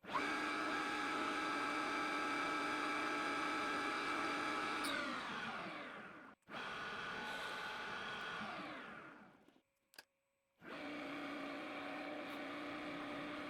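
Schaublin 125 CNC lathe running with a steady whine of several tones while turning a small steel screw. Twice the whine falls in pitch and fades as the spindle slows, with brief silent gaps between runs.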